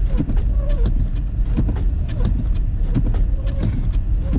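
Inside a car driving on snowy roads: a steady low road and engine rumble, with a regular knock about every two-thirds of a second over it.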